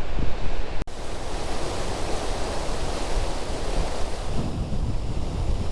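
Wind buffeting the microphone over a steady rush of river water. There is a brief dropout about a second in, and the low gusts pick up again near the end.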